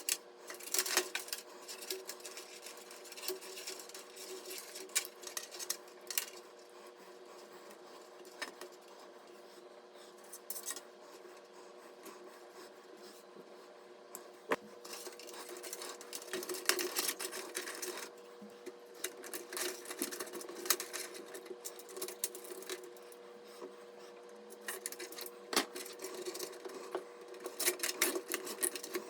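Irregular clicks, taps and light rattles of hard plastic and metal computer parts being handled and fitted during a PC build, over a steady low hum.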